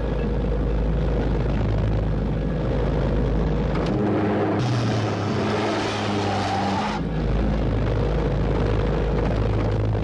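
Car engine running steadily. From about four and a half to seven seconds in, a rushing hiss rises over a different engine note, then the earlier sound resumes.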